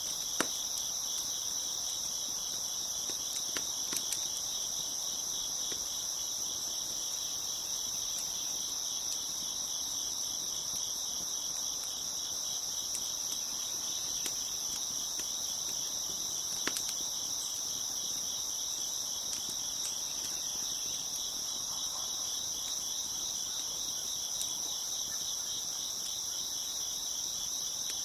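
Dense chorus of crickets chirping steadily in high, finely pulsing trills, with a wood fire crackling now and then in a few sharp pops, the clearest about half a second in and near 17 seconds.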